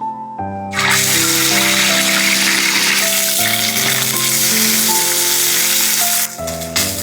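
Food sizzling loudly as it fries in hot oil, starting about a second in and cutting out briefly near the end, over background music.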